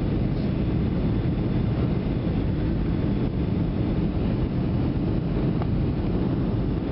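Steady low roar inside the cabin of a Boeing 757 as it comes in to land: engine and airflow noise, even in level throughout.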